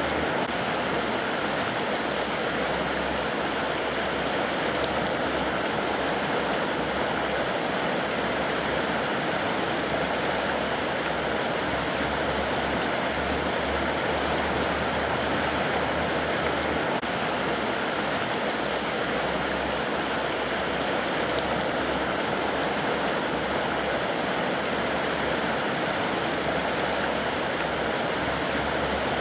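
Mountain river rushing over rocks: a steady, even rush of water with no changes.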